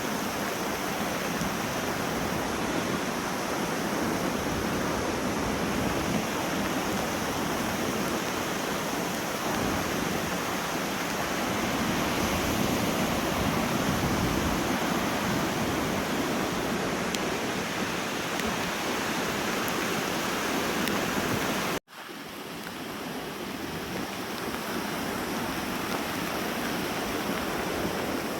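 Loud wind buffeting the microphone over the rush of Lake Huron waves washing onto the beach: a steady, dense noise. It cuts out for an instant about three-quarters of the way through, then comes back.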